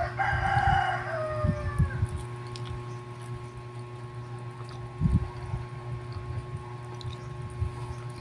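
Close-miked chewing of bread: soft low thumps and faint clicks over a steady electrical hum. A brief pitched sound that slides downward comes in the first two seconds.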